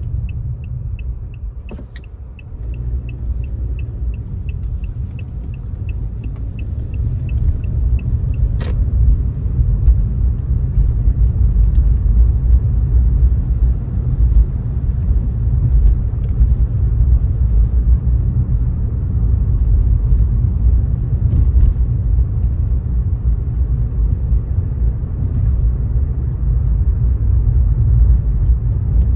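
A car driving along, its road and engine rumble steady and low, growing louder over the first ten seconds or so. A faint ticking about twice a second runs for the first several seconds, and two sharp clicks come near 2 s and just under 9 s, the ticking stopping at the second click.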